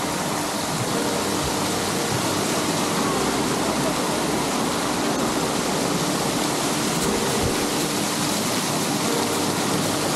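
A steady rushing noise, even and unbroken, of the kind running water makes.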